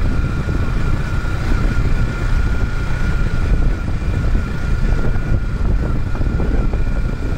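Yamaha R15M's single-cylinder engine running at a steady speed while riding, its pitch holding level, under a heavy rumble of wind and road noise on the microphone.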